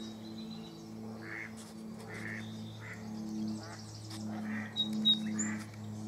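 Birds calling: a series of short, harsh calls about once a second, with a few brief high whistles about five seconds in, over a steady low hum.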